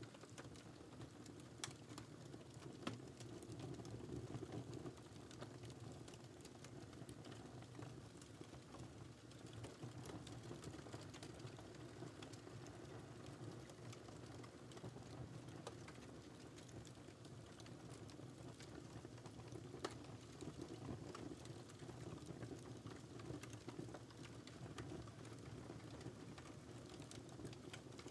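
Wood fire crackling quietly: a low steady rush of burning with frequent small pops and snaps, a few sharper pops standing out, near the start and about two-thirds of the way through.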